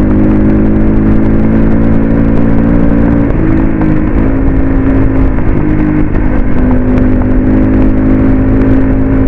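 CrossFire RM 250 dirt bike engine running under way at a steady speed, its pitch stepping up and down a few times with throttle changes, over constant wind rumble on the microphone.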